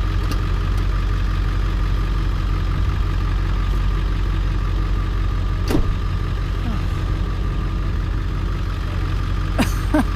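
Pickup truck engine idling steadily with a low, even rumble.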